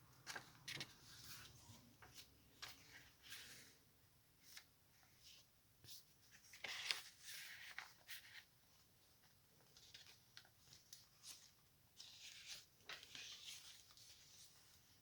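Faint paper rustling and crinkling from journal pages, vellum among them, being handled and turned, in short scattered bursts with a few light ticks.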